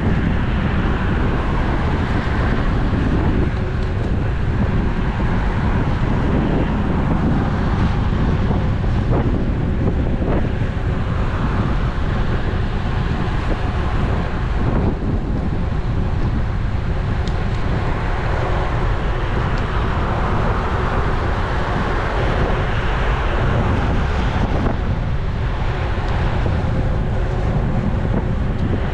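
Wind rushing over a GoPro action camera's microphone on a moving road bike: a loud, steady roar of noise with no letup.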